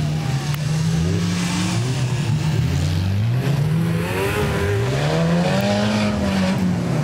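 Off-road 4x4 engines revving hard on a dirt track, their pitch rising and falling repeatedly. At least two engines overlap, one climbing in a long rising rev from about four seconds in and dropping off near the end.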